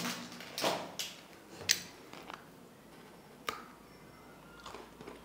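Crunching bites and chewing of a gingerbread man cookie, close on a clip-on microphone: several sharp crunches in the first two seconds, another about three and a half seconds in, then faint chewing.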